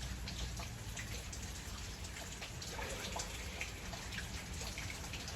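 Steady rain falling, with many separate drops tapping in quick, irregular succession.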